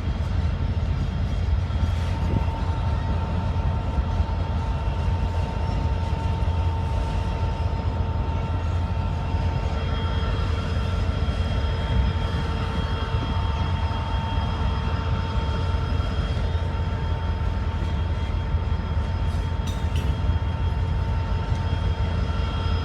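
Long freight train rolling past, its cars making a steady low rumble, with several steady high-pitched tones held throughout.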